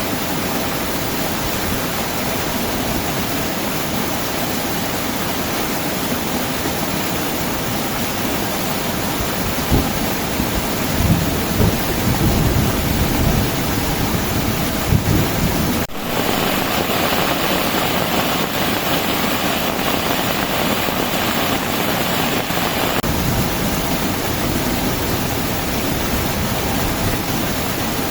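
Heavy rain falling steadily, with low thunder rumbling several times in the middle. After a sudden break just past halfway, the rain sounds harsher for several seconds, then settles back.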